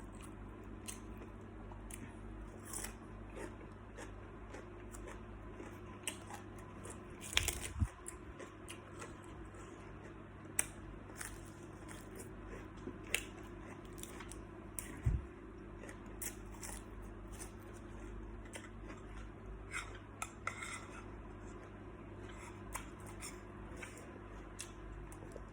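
Eating sounds from a meal of salt-baked shrimp: scattered small clicks and crackles of shrimp shells being handled and bitten, with chewing and a few louder knocks.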